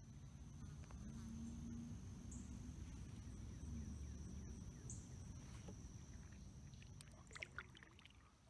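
Faint low rumble of a kayak drifting on a fast river current, with a steady high-pitched whine throughout. A few light knocks come near the end.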